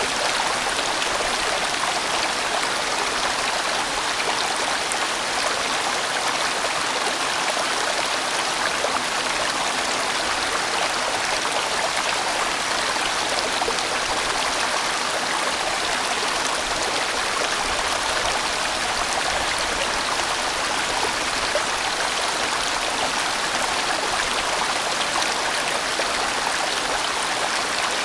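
A large mountain stream rushing steadily over rocks, a full, even rush of flowing water without pause.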